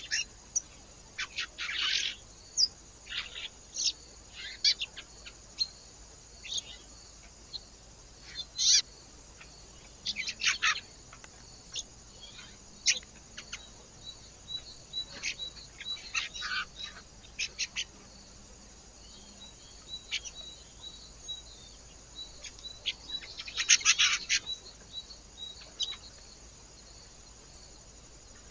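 Small birds calling at a feeder: many short, sharp chirps at irregular intervals, with a dense cluster about two seconds in and another louder flurry near the end. A faint, even run of quick repeated notes sits beneath them through the second half.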